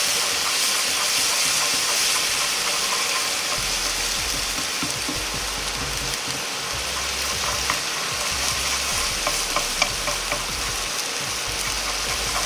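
Minced garlic, ginger and red onion sizzling as they fry in chicken fat and oil in a nonstick frying pan, stirred with wooden chopsticks. A steady hiss with light scraping, and a few sharp taps of the chopsticks against the pan in the second half.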